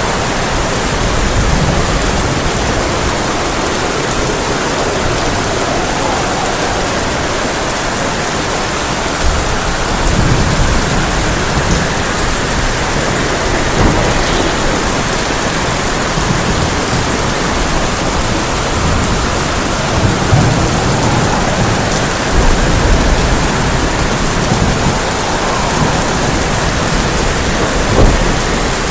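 Heavy rain falling steadily on a tin roof in strong wind, with low rolls of thunder several times and a sharp thunderclap near the end.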